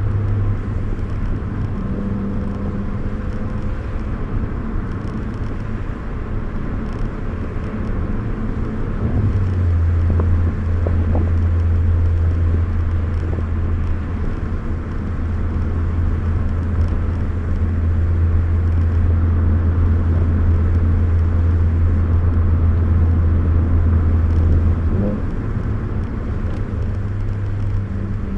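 2013 Ford Focus ST's turbocharged four-cylinder engine and road noise heard inside the cabin while driving, a steady low drone. It gets louder about ten seconds in, holds, and eases a few seconds before the end.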